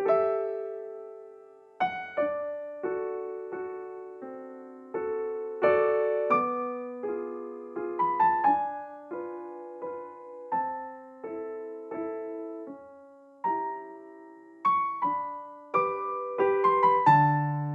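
Background music: a slow, gentle piano melody with soft chords, each note struck and left to fade.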